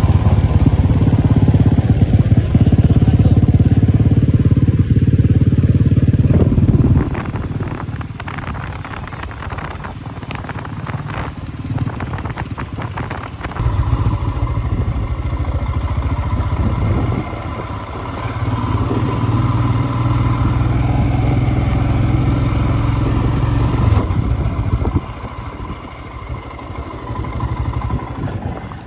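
Motorcycle engine running, loud for the first several seconds, then easing off while clicks and rattles sound for several seconds, and loud again from about halfway through until near the end.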